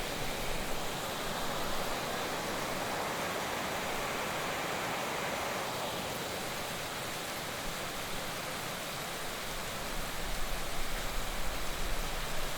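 Heavy rain falling in a steady, even hiss, with a low rumble and more uneven loudness coming in near the end.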